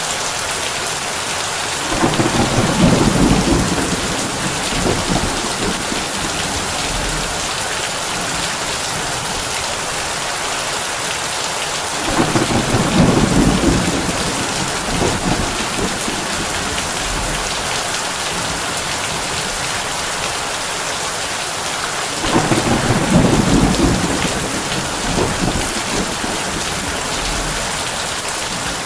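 Heavy rain on a tin roof, a steady hiss, with three low rolls of thunder about ten seconds apart, each rumbling for a couple of seconds before trailing off.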